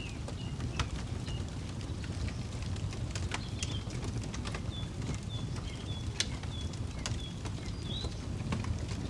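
Campfire crackling, with irregular sharp snaps and pops over a low steady rumble. Birds call throughout in short, repeated high chirps.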